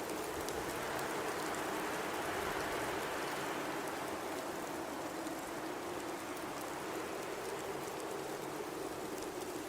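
Blizzard wind blowing steadily, with a low tone in it that drifts slightly in pitch. It swells for a couple of seconds about a second in.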